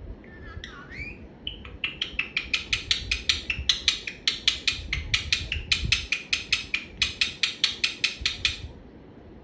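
Pet parrot calling: a couple of short gliding calls, then a long fast run of sharp, high chirps, about five or six a second, that stops shortly before the end.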